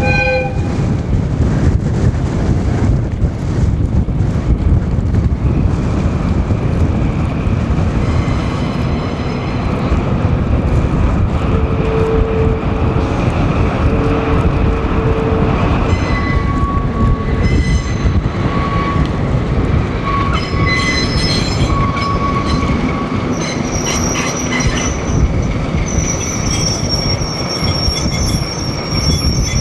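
A train of KiHa 40-series railcars hauled by a diesel locomotive rolling along the track, with a steady rumble and wheels squealing on and off at several high pitches from about a quarter of the way in.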